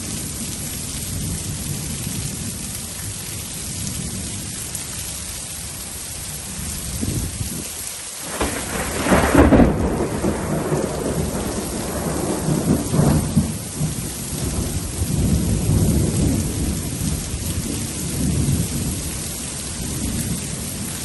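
Steady heavy rain with a thunderclap about eight seconds in, loudest a second later, followed by low rolling thunder rumbling on for several seconds.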